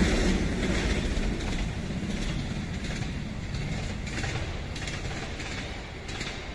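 Passing train moving away along the line, its rumble fading steadily, with a few faint clacks of wheels over the rails.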